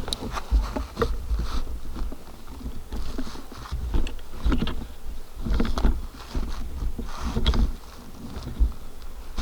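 Irregular rustling and crunching with heavy low thumps close to the microphone: a person moving in dry forest litter and brush.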